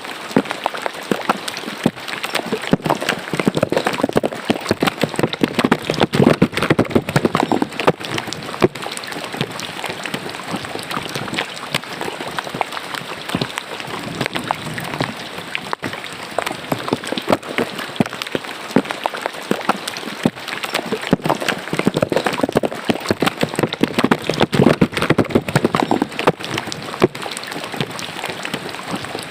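Rain falling into a drainage ditch: many drops hitting water in a dense, steady run of small splashes.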